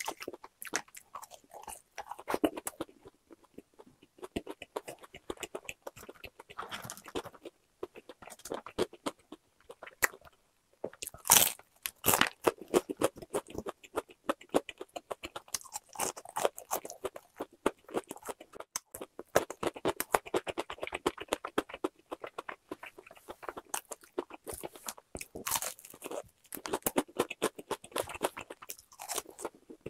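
Close-up crunching and chewing of crispy-coated boneless fried chicken, the coating crackling with each bite, with a loud run of crunches about eleven seconds in.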